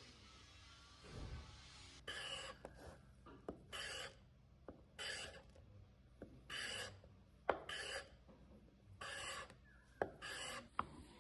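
A hand tool drawn in strokes across wood: about six rasping strokes, each about half a second long and roughly a second and a half apart, with two sharp knocks between them.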